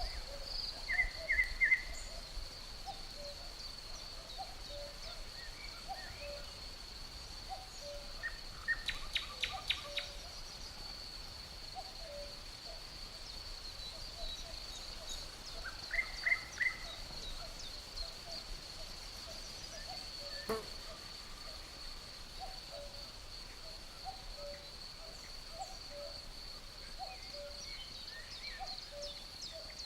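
Birds chirping in short phrases over a steady high-pitched insect trill, with soft calls scattered throughout and a rapid run of clicks about nine seconds in.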